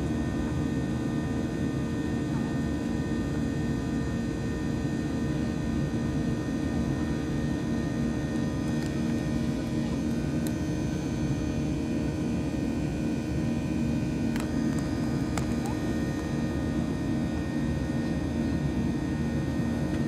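Steady drone of engine and airflow noise inside an airplane cabin, with a constant hum running through it. A few faint clicks come around the middle.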